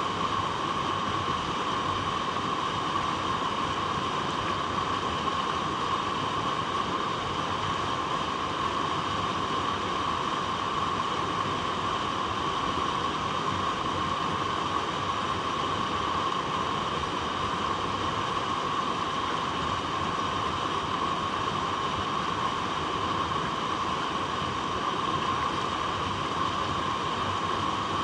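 Water flowing over rocks in a steady rush that does not change.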